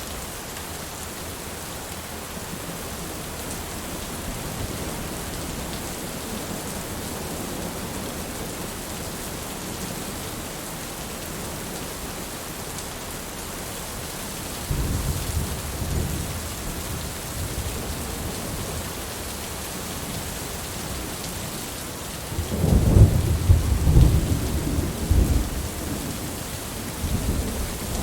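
Steady rain with thunder: a low roll of thunder about halfway through, then a louder, crackling thunderclap rumbling for a few seconds near the end, with a last smaller rumble just after.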